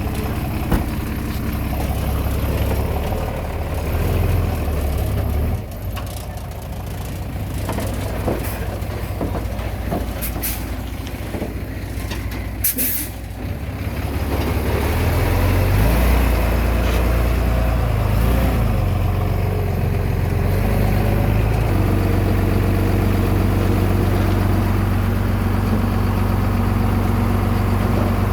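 Heavy diesel engine of earthmoving machinery running and changing speed under load, settling into a steadier, stronger run from about halfway. Two short hisses are heard near the middle.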